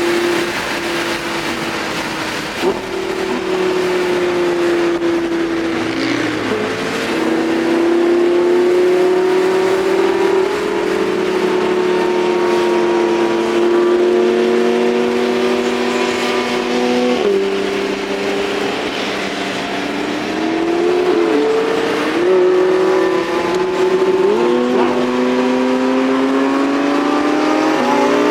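High-performance car engine running under steady load, its pitch holding for seconds, then stepping and dipping with gear changes and throttle, and climbing steeply as it revs up at the very end.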